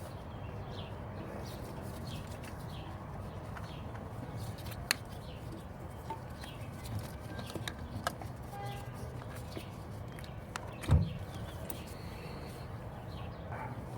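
Faint outdoor background with scattered bird calls, a couple of sharp clicks, and a single low thump about eleven seconds in.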